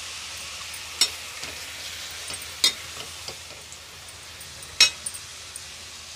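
Chicken pieces frying in mustard oil in a metal pan, a steady sizzle, while a metal ladle stirs them and clinks sharply against the pan three times.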